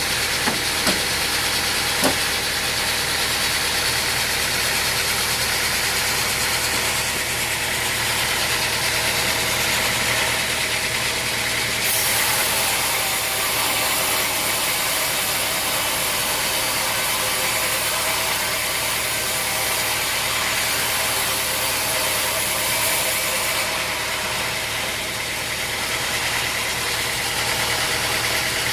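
Sawmill machinery running steadily, an engine-like hum under a hiss, with a few sharp knocks in the first two seconds. The high hiss grows brighter from about twelve seconds in and falls back near the end.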